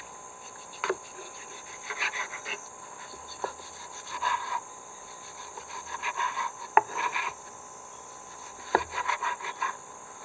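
Several short bursts of quick rasping, scraping strokes, with a few sharp clicks in between.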